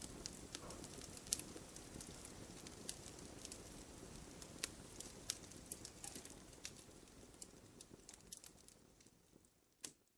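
Wood bonfire crackling: scattered sharp pops and snaps over a soft low rush of flames, fading away over the last couple of seconds, with one louder pop just before the end.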